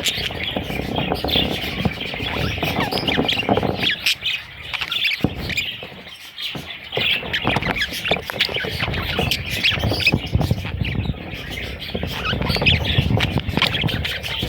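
Budgerigars squawking and chattering: many quick, high chirps and squawks overlapping, over a low rumbling noise, with a short lull about five to six seconds in.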